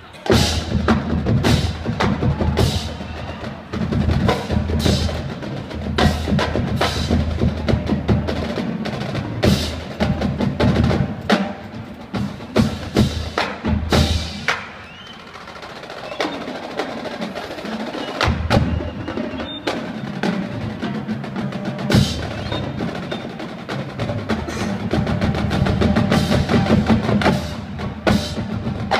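School marching band playing a loud, percussion-heavy passage, with sharp drum and percussion hits and rolls over sustained lower-pitched band sound. The volume dips to a softer stretch about halfway through, then builds again.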